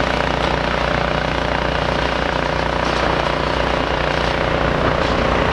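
Demolition site machinery running with a steady, loud drone.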